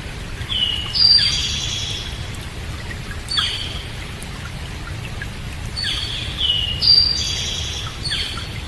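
Songbirds calling in short, repeated phrases of high, down-sweeping notes about every two to three seconds, the loudest about a second in and near seven seconds. A steady hiss of rain runs beneath them.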